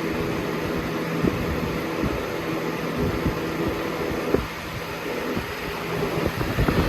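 Lasko Premium 3723 box fan running on high: a steady rush of air over a low motor hum, with scattered low thumps.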